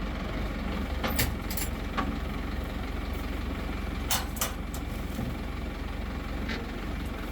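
Crane engine running steadily with a low rumble, with a few short sharp sounds on top at irregular intervals.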